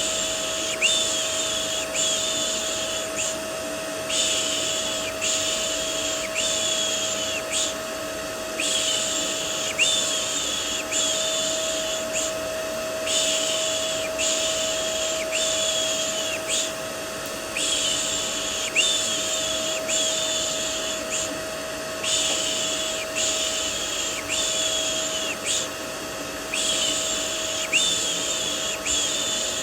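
Vacuum cleaner white noise with a steady motor hum, overlaid with repeated soothing 'shh' hushing sounds, about one a second in runs of four or so separated by brief pauses.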